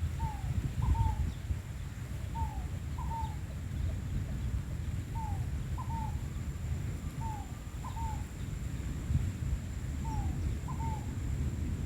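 A bird repeating short, downward-slurred call notes, often in quick pairs, about once a second, over the low rumble of wind buffeting the microphone as a rainstorm approaches.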